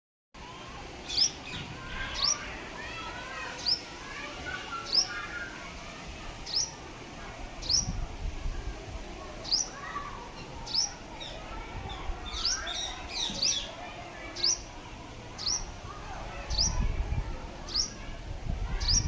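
Birds calling: one bird repeats a short, sharp, high call about once a second over softer twittering from other birds, with bursts of low rumble near the end.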